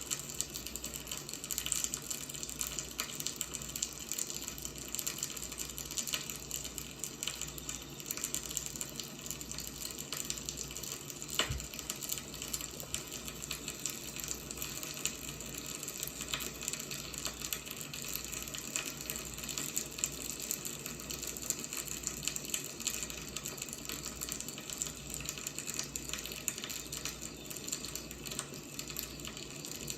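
Wood fire burning: a steady hiss with frequent small crackles and pops, and one louder pop about eleven seconds in.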